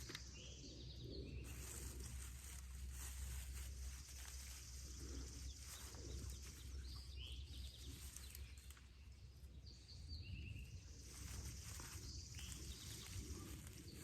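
Quiet outdoor ambience: a steady low rumble and soft hiss, with short, high bird chirps now and then.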